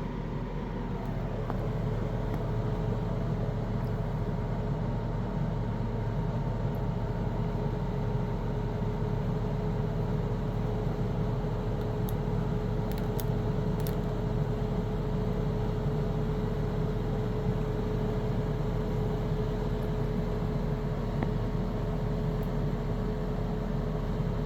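Chill Cube 18,000 BTU RV air conditioner running, its compressor ramping up a short while after starting: a steady fan rush over a low hum, growing a little louder over the first couple of seconds, with a steady whine that settles in about a second and a half in.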